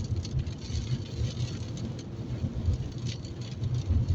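Inside a moving car in heavy rain: steady low engine and road rumble, with rain hitting the car.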